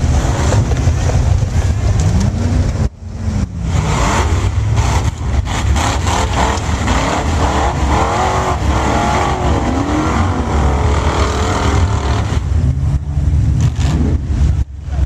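A 4x4's engine running loud under load on an off-road trail, its pitch rising and falling as it is revved, over a heavy low rumble. It cuts off briefly about three seconds in.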